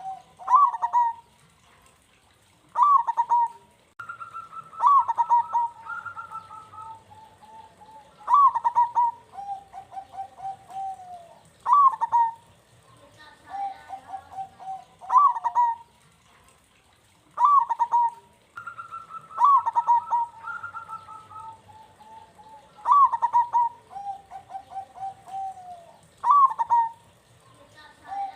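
Zebra dove (perkutut) cooing over and over. Each phrase opens with a sharp upward note and runs into a wavering, trilled coo, and the phrases come about every three seconds.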